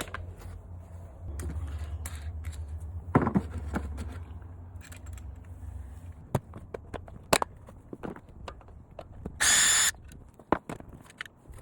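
Scattered clicks and knocks of tool handling, with a low rumble in the first half. About three-quarters of the way in, a cordless drill or driver spins in one short burst of about half a second.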